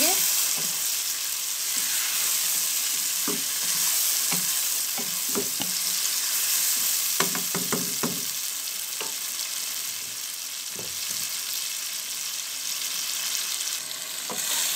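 Chicken pieces frying in oil in a wok with onion, tomato, ginger-garlic paste and green chillies, sizzling steadily through the bhuna stage. A wooden spatula stirs and knocks against the pan now and then, with a quick run of strokes about seven seconds in.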